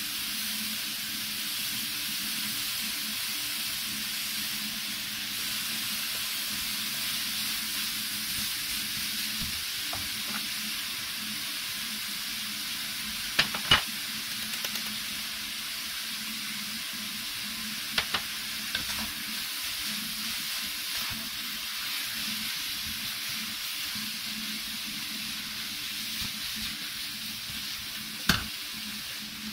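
Zucchini and carrot noodles sizzling in a frying pan as they are stirred with a wooden spatula, with a steady hiss. A few sharp knocks of the spatula against the pan: two close together about halfway, another a few seconds later, and one near the end.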